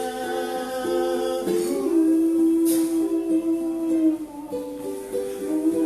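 A man's voice holding long sung notes over a plucked ukulele, the pitch stepping to a new note every second or so, with one long note held about two seconds in.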